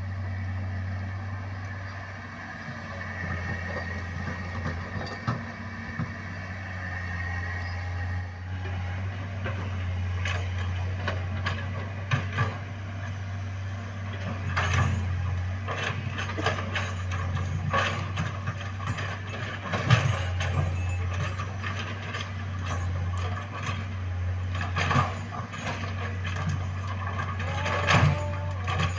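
Heavy diesel excavator engine running steadily, with irregular metallic clanks and knocks starting about nine seconds in.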